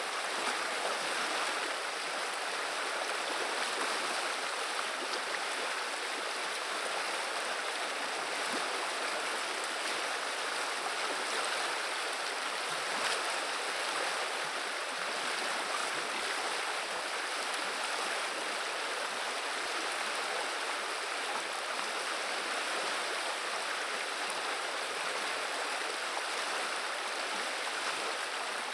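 Flowing river water murmuring steadily, an even rush that does not change.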